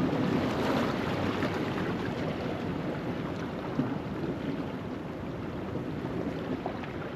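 Ocean waves washing over a rocky shoreline at low tide, a steady rushing wash that swells slightly near the start, with wind buffeting the microphone.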